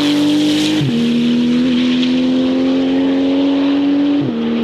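Porsche 911 GT2 RS Clubsport's twin-turbo 3.8-litre flat-six accelerating at full power, its pitch climbing slowly. It upshifts twice, once about a second in and once near the end.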